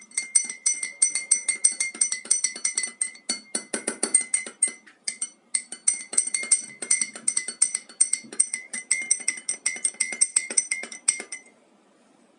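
A teaspoon stirring quickly in a ceramic mug of water, clinking against the sides several times a second, each clink ringing briefly. The stirring stops suddenly near the end.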